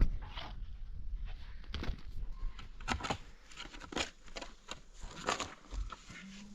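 Irregular clicks, knocks and rustling of things being handled, with a faint low rumble underneath.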